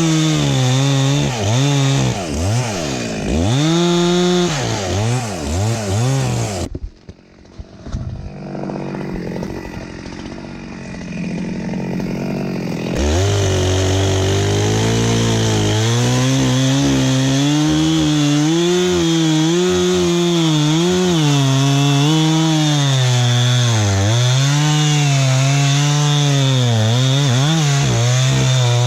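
Two-stroke chainsaw cutting wood, its engine pitch rising and falling as it works under load. About seven seconds in it drops away to a quieter, rougher sound for several seconds, then comes back at high revs and keeps cutting.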